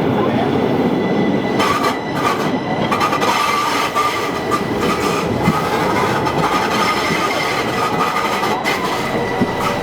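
Metre-gauge Rhaetian Railway train running on the Arosa line, wheels on rail with scattered clicks. A steady high wheel squeal sets in after about a second and a half.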